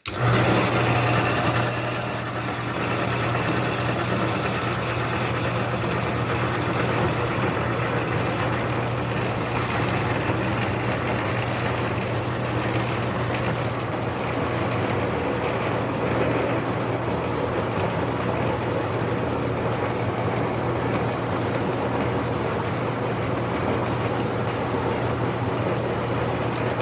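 Small bench lathe running at a slowed spindle speed with a 9/16-inch drill boring a full-diameter hole into the workpiece: a steady motor hum under continuous cutting noise.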